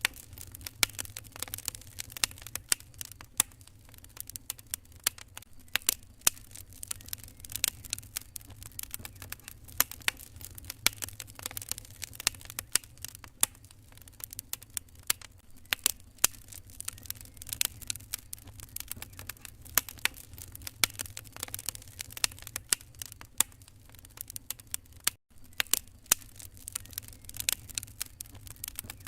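Wood fire crackling in a fireplace: irregular sharp pops and snaps over a steady low hum, with a momentary cut-out about twenty-five seconds in.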